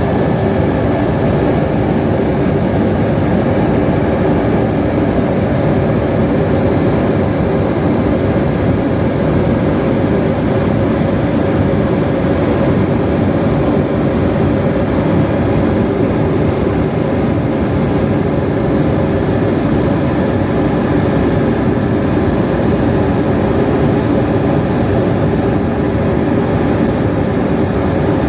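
Helicopter in flight: a loud, steady drone of engine and rotor that does not change.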